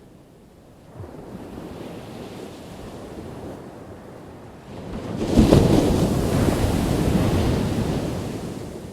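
Ocean waves breaking on the shore: a smaller wave washes in about a second in, then a bigger one crashes about five seconds in and slowly washes out.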